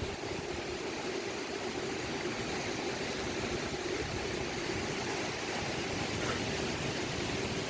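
Strong wind blowing, a steady rushing noise with a low hum running underneath.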